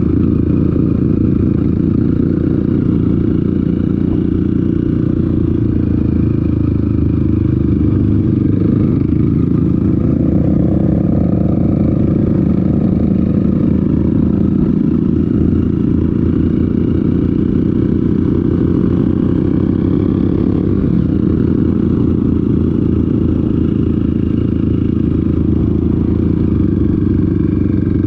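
Dirt bike engine running steadily under way on a trail ride, rising and easing a little partway through.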